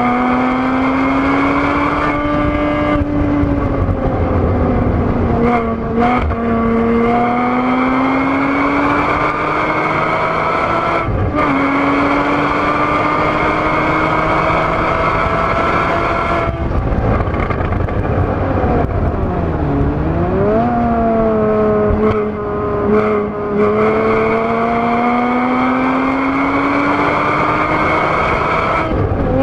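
2013 Porsche Boxster S (981) 3.4-litre flat-six at high revs, heard from inside the cabin at track speed. The engine note climbs steadily under full throttle, breaks briefly for gear changes, and about two-thirds through drops and then jumps back up sharply, with tyre and wind noise underneath.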